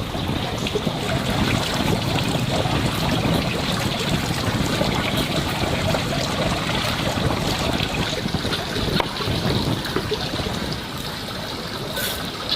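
Water running and splashing, a steady rushing with scattered small clicks.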